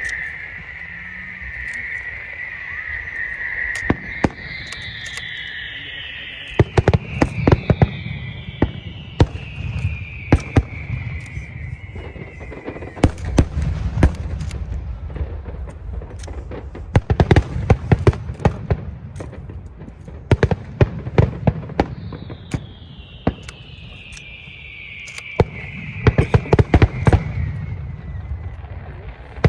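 Fireworks show: clusters of shells bursting in sharp cracks over a low rumble, again and again. Long whistles slide down in pitch over several seconds, and a steady whistle sounds at the start.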